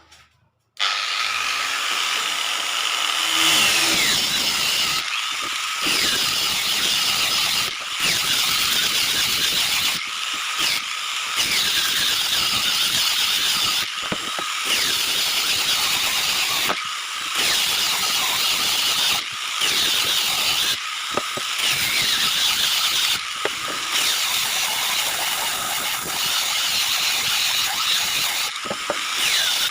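Electric power tool starts about a second in, winds up over the next few seconds and runs steadily at high speed on wood, with brief dips in level every few seconds.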